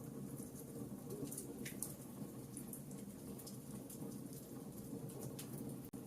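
Wood campfire crackling: irregular snaps and pops over a low, steady rumble of the burning fire.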